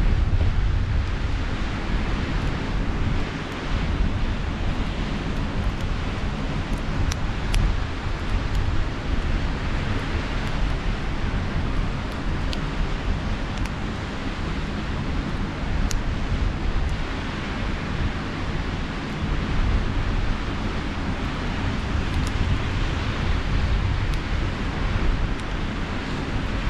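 Sea surf washing steadily, with wind buffeting the microphone in a heavy low rumble that swells and eases. A few faint, sharp crackles from a campfire come through now and then.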